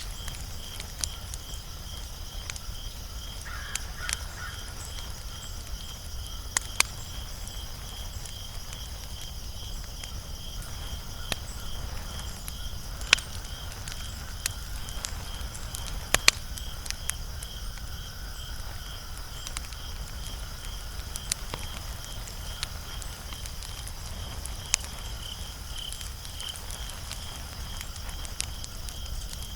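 Wood fire crackling, with scattered sharp pops, a few much louder than the rest, over a low steady rumble of the flames. A steady high pulsing trill runs underneath.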